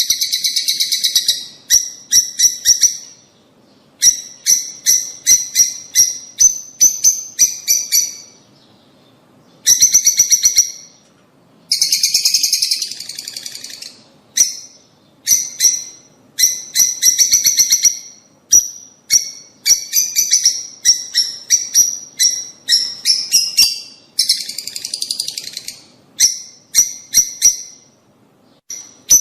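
Lovebirds calling: runs of rapid, shrill chirps and screeches lasting a second or two each, broken by short pauses.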